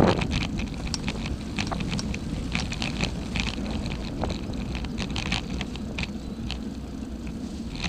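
Wind rumbling on the microphone, with scattered short, sharp clicks.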